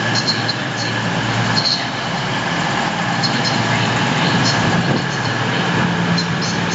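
Class 222 Meridian diesel multiple unit's engines running with a steady hum while it stands at the platform.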